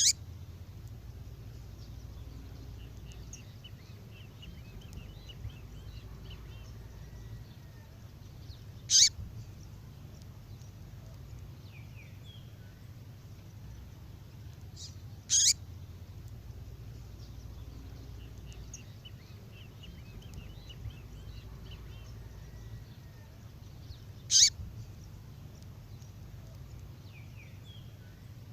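Female songbird call: four loud, sharp calls sweeping down in pitch, spaced about six to nine seconds apart, with softer strings of chirps between them, over a steady low hum.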